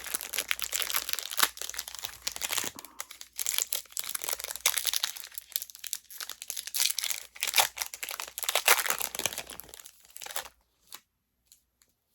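Baseball card pack wrappers being torn open and crinkled by hand, a dense crackling that stops suddenly after about ten seconds, followed by a few faint clicks.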